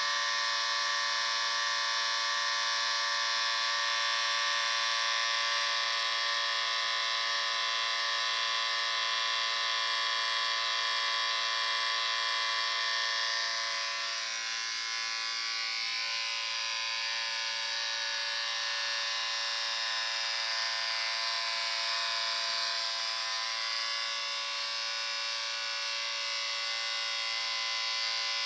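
Electric shaver running with a steady high buzz, its pitch and loudness shifting slightly about halfway through.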